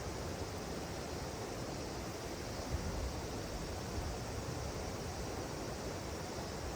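Steady rushing of river water, with a couple of faint sharp pops from a small wood bonfire about three and four seconds in.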